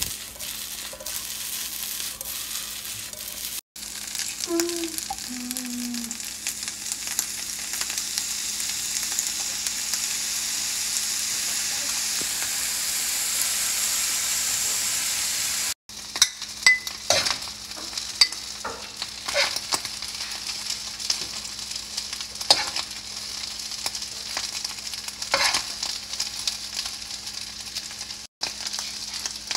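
Fried rice with egg sizzling in a frying pan as it is stirred. The sizzle is a steady hiss for the first half, then gives way to scrapes and clicks of the utensil against the pan.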